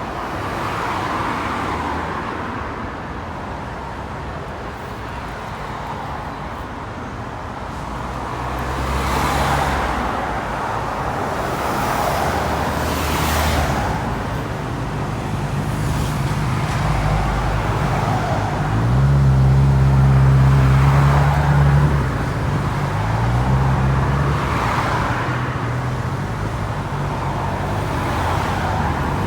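Road traffic: cars passing one after another, each a swell of tyre noise, over a steady low engine drone that is loudest about two-thirds of the way through as a large vehicle goes by.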